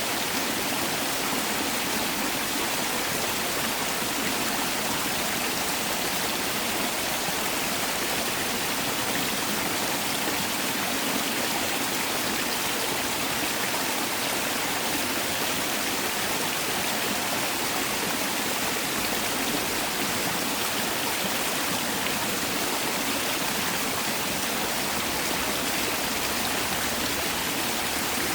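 Mountain valley stream rushing steadily over rocks, a constant even splashing with no change.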